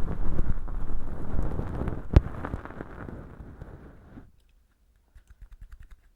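Bonten feather-tuft earpick brushing and scratching inside a velcro-lined dummy ear packed with dry fake earwax, close to the microphone: a dense scratchy rustling with one sharp click a little after two seconds. The rustling fades out after about four seconds, leaving a few faint ticks.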